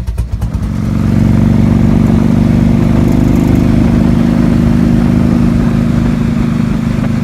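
1998 Harley-Davidson Evolution Big Twin V-twin engine, fuel-injected, idling with a pulsing beat, then revving up about half a second in and running steadily at higher revs.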